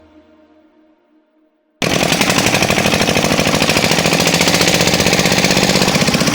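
Faint tail of music fading out, then about two seconds in a loud engine cuts in close by, running with a fast, even chugging of about eight beats a second.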